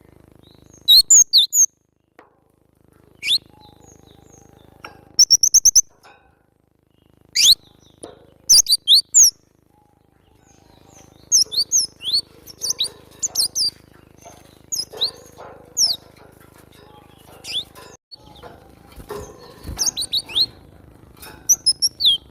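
Cinereous tit (glatik batu) calling: loud, short, high chirps in quick clusters with pauses between. About five seconds in comes a rapid run of about eight ticks. A faint low hum sits underneath.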